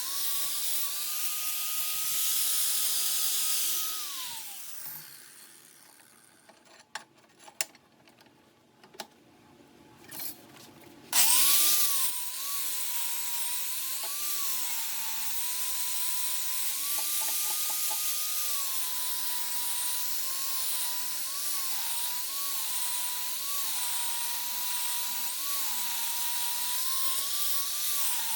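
Electric power tool motor running, then winding down with a falling pitch about four seconds in. After a few seconds of quiet with a handful of clicks, it starts again sharply and runs with its pitch dipping again and again as it bites into the work under load.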